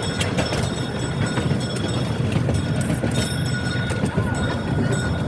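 Train in motion heard from on board: a steady low rumble with scattered clicks of wheels over the rail joints and a faint steady high whine.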